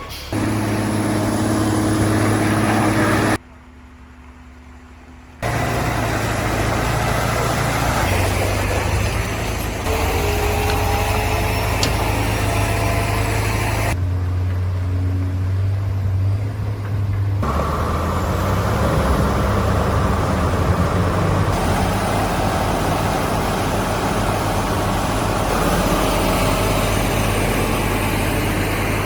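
Heavy truck engines running with a steady low hum, heard as a series of short clips cut together. There is a sudden quieter gap about three to five seconds in.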